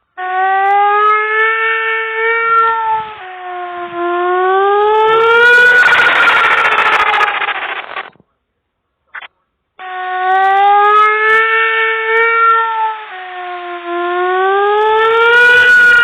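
Tornado siren sound wailing, its pitch dipping and then rising. It cuts off about eight seconds in and starts again about two seconds later with the same rise and fall.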